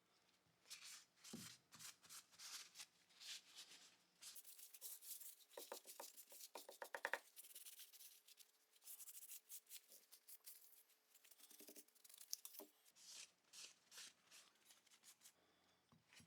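Quick, irregular scraping and rubbing strokes of hand restoration work on small pistol parts. A faint steady hum runs under them from about four seconds in until near the end.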